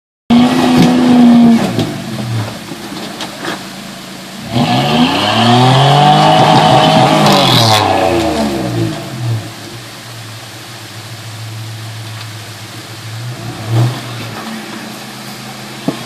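4x4's engine revving: a high rev at the start that drops away, then a long rev that climbs and falls back over about five seconds, settling to a steady low idle near the end.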